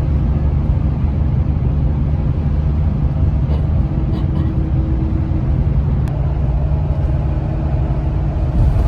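Steady noise of a moving road vehicle: a heavy low rumble with an even hiss above it, unbroken throughout.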